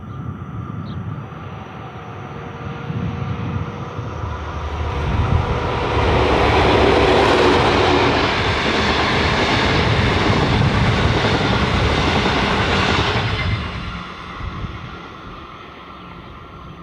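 Clyde/EMD diesel-electric locomotive hauling a passenger train past at speed: the engine drone builds as it approaches, then the carriages roll by loudly for several seconds. The noise drops away sharply about thirteen seconds in as the last carriage passes, then fades.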